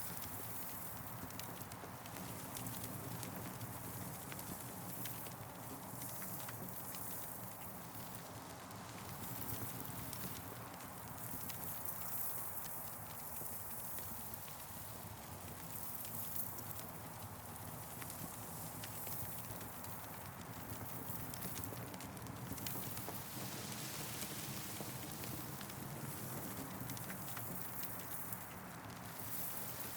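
Campfire crackling: a steady run of small pops and snaps over an even hiss.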